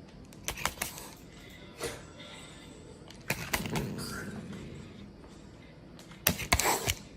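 A few clusters of sharp knocks and clicks, the loudest coming near the end.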